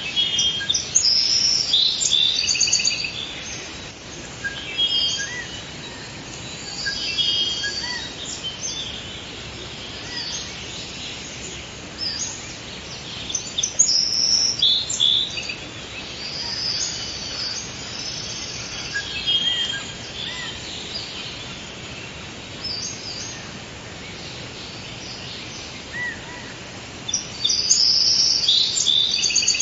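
Forest ambience: several songbirds chirping and trilling in short bursts over a steady background hiss.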